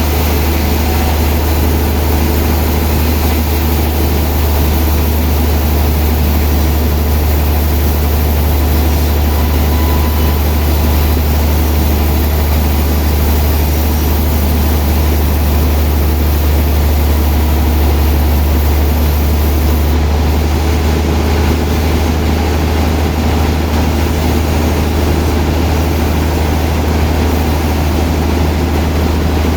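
Sawmill machinery running steadily, with a loud, constant low hum and an even mechanical noise over it.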